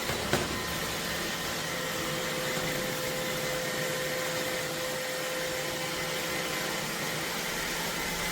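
iRobot Roomba Vac Essential (Q0120) robot vacuum running: a steady suction and brush hum with a faint high whine, and one sharp click just after the start.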